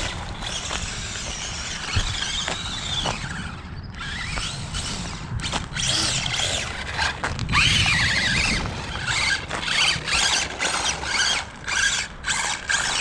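Electric motor of a radio-controlled pickup truck whining as the throttle is blipped, its pitch rising and falling, with the wheels spinning on wet ground so the truck fishtails. Near the end the throttle comes in short quick bursts.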